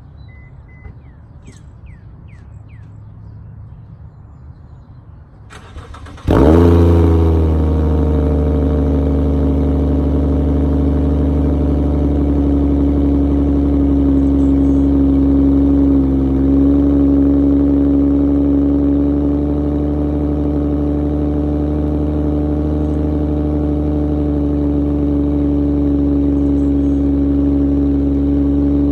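A Subaru Legacy 3.0R's flat-six engine, exhausting through an axle-back muffler delete, starts about six seconds in. It flares up briefly as it catches, then settles to a steady, loud idle.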